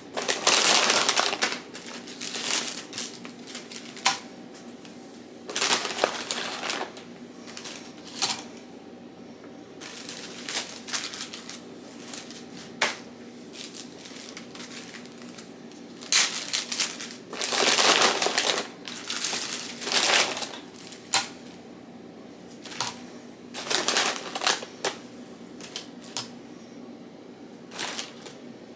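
Kitchen food-prep handling sounds: irregular bursts of rustling and scraping with a few sharp clicks, over a faint steady hum.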